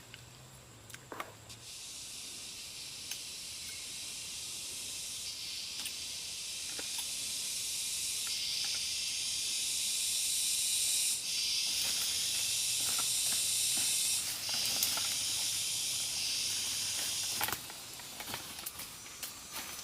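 A loud, steady high-pitched hiss that builds gradually, shifts in pitch in steps every few seconds, and cuts off suddenly near the end. A few scattered clicks sound through it.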